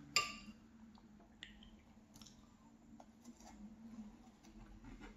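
A metal spoon clinks once against a ceramic bowl just after the start, then faint chewing and small crunches as a chocolate-coated cookie is bitten and eaten close to the microphone.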